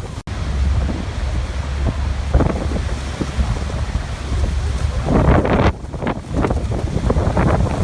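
Waterfall rushing, with wind buffeting the microphone in gusts that swell about two seconds in and again around five seconds. The sound cuts out for an instant just after the start.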